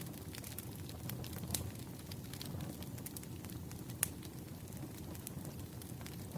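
Wood fire crackling: irregular sharp pops and snaps over a steady low rumble, the loudest pop about four seconds in.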